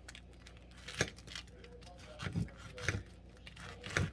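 Food-handling noises while assembling a sandwich: soft rustling with a few light knocks and clicks spaced about a second apart.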